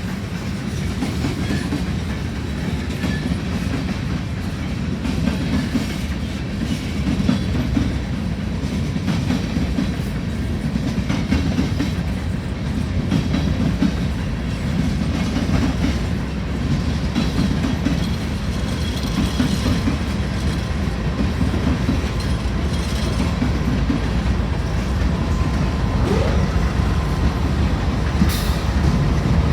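Freight train cars rolling steadily past, their wheels clicking over the rail joints over a continuous low rumble.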